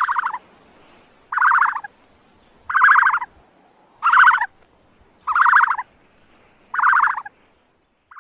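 An animal calling six times, each call short, about half a second, and evenly spaced about a second and a quarter apart.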